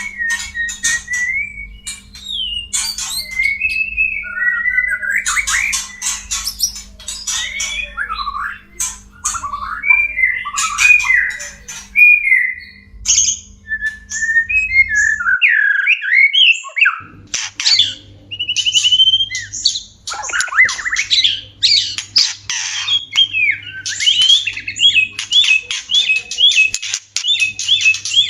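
White-rumped shamas (murai batu) in courtship, calling with varied whistled phrases mixed with harsh rattling chatter. Near the end comes a run of repeated whistled notes, about two a second. A low electrical hum runs underneath and drops out for a second or two in the middle.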